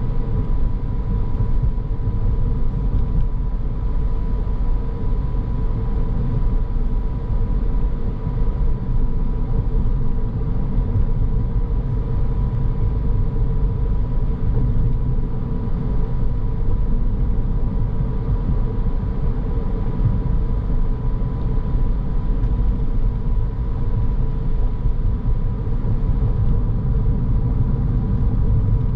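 Car driving at a steady speed: constant low road and tyre rumble with engine noise and a faint steady hum throughout.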